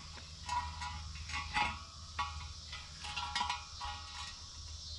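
Steel tractor wheel being turned over by hand: several metal clanks, each leaving a brief ringing tone, over a steady low hum.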